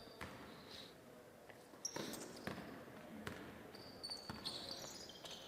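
A basketball bouncing on a gym floor during play: a few separate, uneven bounces from about two seconds in. Brief high squeaks around the middle, typical of sneakers on the court.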